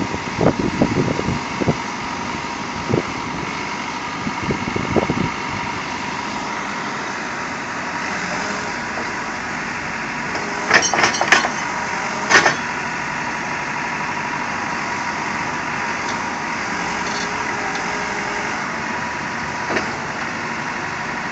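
An engine idling steadily, with a few sharp knocks in a cluster about eleven to twelve seconds in.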